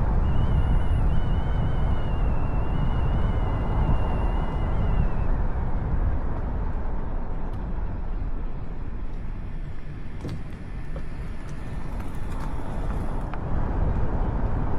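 Vehicle driving along, with a steady low rumble of engine and road noise. A thin, wavering high tone sounds over it for about the first five seconds.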